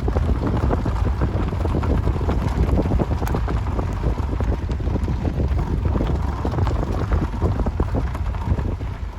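Wind buffeting the microphone: a loud, steady low rumble with irregular gusty crackle over it.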